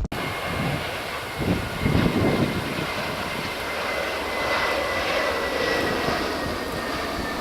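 Jet airliner's engines, a rushing noise with a thin high whine that slowly falls in pitch.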